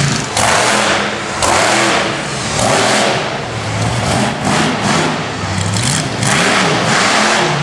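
A monster truck's engine revving hard in repeated throttle bursts, its pitch rising and falling again and again.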